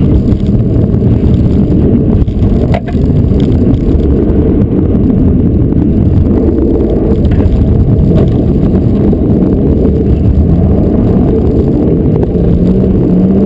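Mitsubishi Lancer Evolution rally car's engine and drivetrain running hard at speed, heard loud from inside the cabin, with a sharp knock about three seconds in and the engine revving up near the end.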